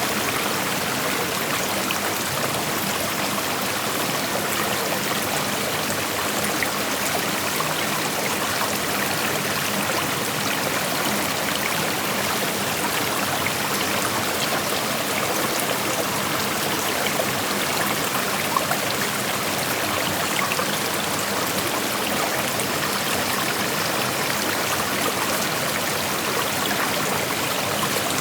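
A shallow creek flowing over rocks: a steady rush of running water with a fine trickling and splashing texture, even throughout.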